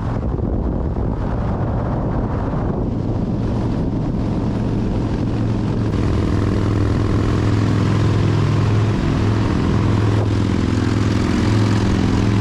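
Harley-Davidson Fat Bob's V-twin engine running steadily at highway cruising speed, a low drone mixed with wind and road rush, a little louder from about six seconds in.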